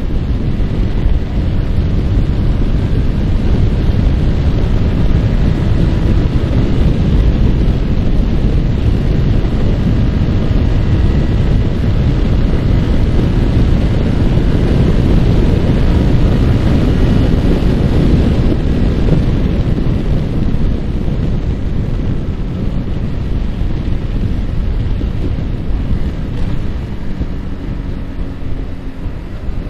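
Heavy wind rushing over the microphone of a moving Yamaha R15 motorcycle, with its single-cylinder engine running steadily underneath. The level eases off slightly in the last few seconds.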